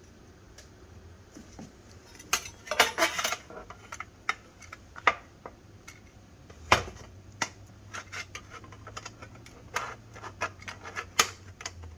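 Metal shower fittings and screws clinking and rattling as they are handled against a stainless steel shower panel. A burst of rattling comes about two to three seconds in, followed by scattered sharp clicks and taps.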